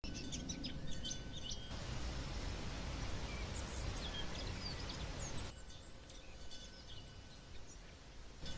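Small birds chirping, with short rising and falling whistles, over a steady background hiss. The hiss grows fuller about two seconds in and drops suddenly about five and a half seconds in.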